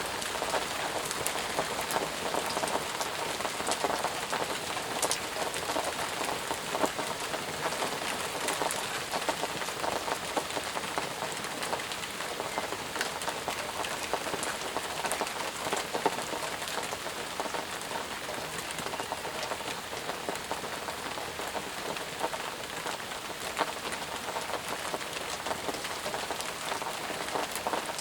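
Steady rain falling, with many individual drops pattering close by over an even hiss.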